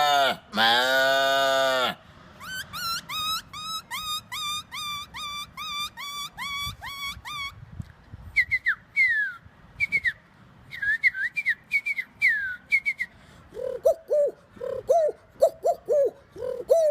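A man imitating animals with his mouth: a long cow-like moo that ends about two seconds in, then a quick run of rising whistled bird calls, about three a second. Next come falling whistled calls mixed with clicks, and near the end a lower repeated cooing like a pigeon.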